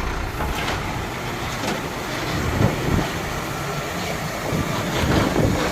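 Heavy truck engine running on a steep climb, with a rough rumble that grows louder near the end.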